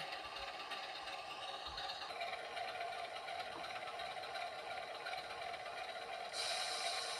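OO-gauge model locomotive running on the layout: a steady mechanical hum with light clatter, turning brighter and louder about six seconds in.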